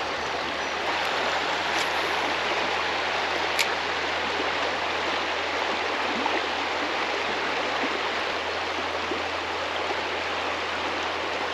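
Creek current running steadily over shallows, an even rush of flowing water, with two faint clicks a couple of seconds apart in the first few seconds.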